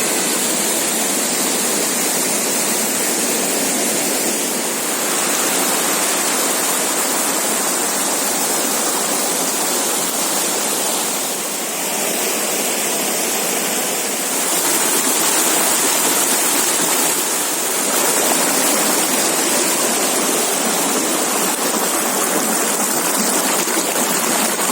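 Heavy-flowing river rushing steadily, a loud even wash of water that swells slightly a few times.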